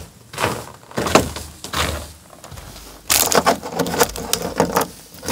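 A bag of peanuts being handled close to the microphone. A few separate rustles and knocks come first, then about three seconds in there are nearly two seconds of dense crackling and crinkling.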